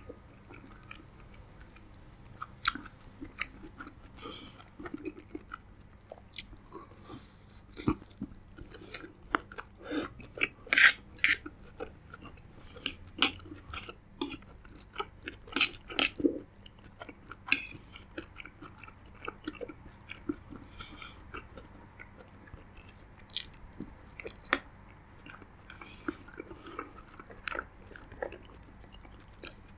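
A person chewing and biting food close to the microphone, with many irregular sharp mouth and bite clicks, loudest about ten seconds in.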